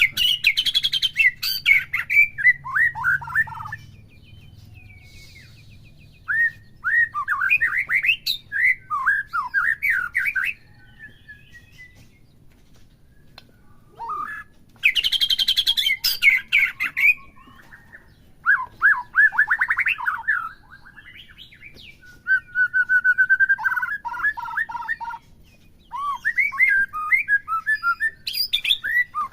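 White-rumped shama singing in bursts of varied whistles, trills and harsh chatter, each phrase a few seconds long with short pauses between.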